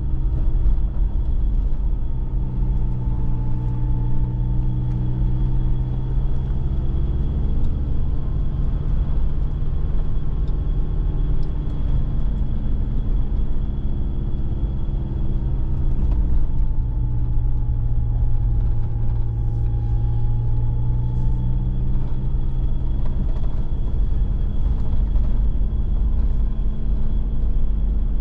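4x4 engine running steadily under load on a climbing mountain track, heard from inside the cab: a low drone whose pitch slowly rises and falls with the revs, over a constant road rumble.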